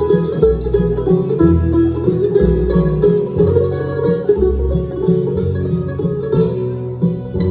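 Bluegrass band playing an instrumental intro: banjo picking over guitar, with low bass notes falling about once a second.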